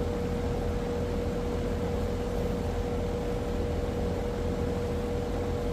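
Outdoor air-conditioner condensing unit running: a steady fan rush with a low rumble and a constant mid-pitched electrical hum.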